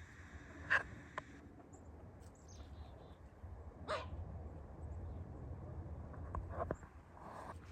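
A few short animal calls spaced a few seconds apart, over a steady low rumble.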